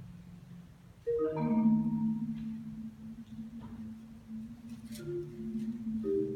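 Solo marimba: a quick run of notes falling from high to low about a second in, then low notes ringing on, with more low notes struck near the end.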